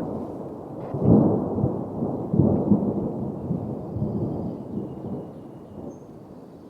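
Thunder rolling: a deep rumble that swells about a second in, peaks several times over the next couple of seconds, then slowly fades.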